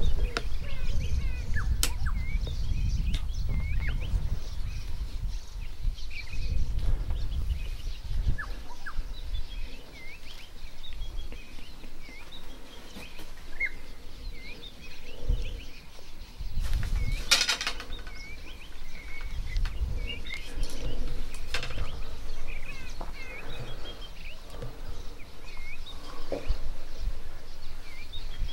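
Wild birds chirping and calling on and off in the bush, over a low rumble that is strongest in the first half. About two-thirds of the way through there is one louder, brief rattling burst.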